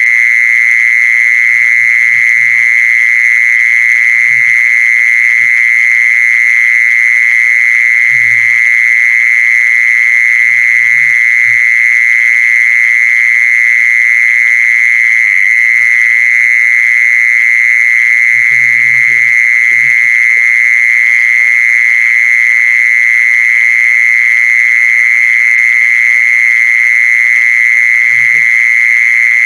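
Steady, loud, high-pitched animal call played without a break, a lure sound for calling the female khmol. Faint low knocks come a few times underneath.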